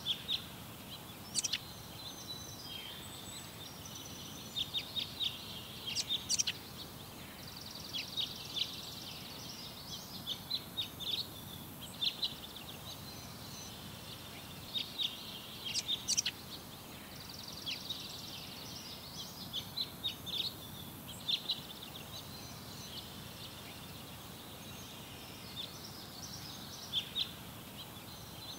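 Small birds chirping and trilling in scattered bursts over a steady background hiss.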